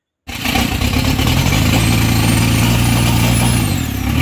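Isuzu 4JX1 four-cylinder turbodiesel engine running steadily, now that its crankshaft reluctor timing has been corrected. It cuts in suddenly just after the start, and a faint high whine falls away near the end.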